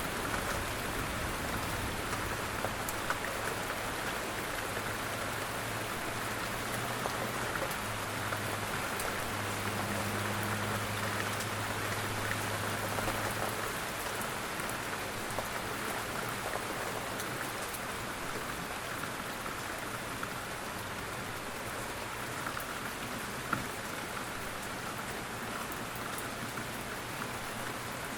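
Steady rain falling, an even hiss with scattered light drop taps.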